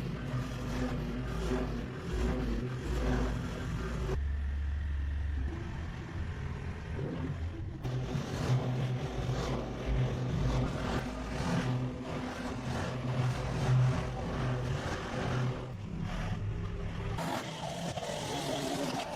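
An engine running steadily, its pitch and level shifting abruptly a few times.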